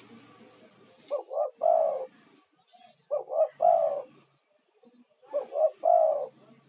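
Male spotted dove (tekukur) giving its calling coo three times, each phrase two short coos followed by a longer falling one.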